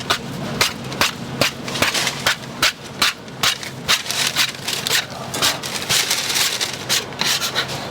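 Rapid, irregular sharp knocks and clatter of hard utensils on a hard surface, about three or four a second, over steady background noise.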